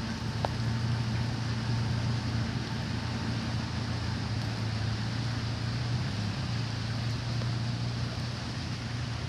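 Steady low mechanical hum, like an idling engine or machinery, under an even hiss.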